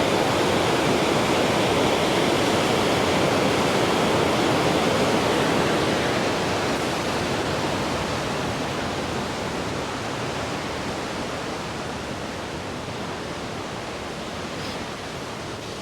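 Waterfall, a steady rush of falling water, loud at first and slowly growing quieter over the second half.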